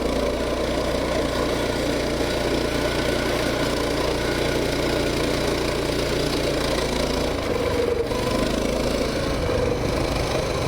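Coleman BT200X mini bike's single-cylinder four-stroke engine running steadily while riding across ice. The engine note shifts a little over two-thirds of the way through.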